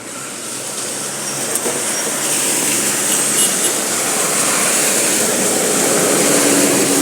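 A vehicle driving past on a rain-soaked road: the hiss of tyres through standing water builds slowly, peaks near the end, then begins to fade.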